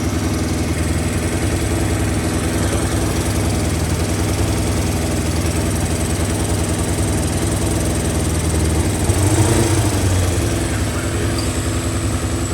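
Motorcycle engine idling steadily, with a brief rise in level about nine seconds in. It is running with a vacuum leak where a bolt has come out, which the owner blames for the engine running raggedy with its revs hanging.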